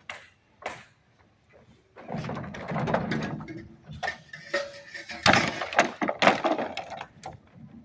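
Construction work sounds: irregular knocks and thuds, a short lull about a second in, then busier clatter with louder knocks in the second half.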